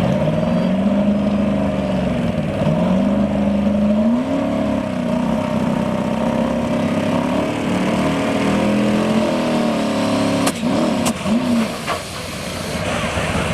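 Modified two-wheel-drive pulling truck's turbocharged engine under full load on the track, its pitch surging up and down instead of holding steady. There are two sharp cracks about ten and a half seconds in, and the engine drops off soon after. The uneven pull is what the announcer puts down to the twin turbos not working together, one pushing and one pulling.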